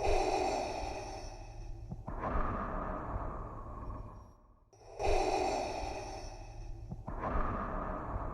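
Darth Vader's respirator breathing sound effect: two slow, mechanical in-and-out breaths, each a hissing draw followed by a second hiss that fades, about five seconds per breath with a brief pause between.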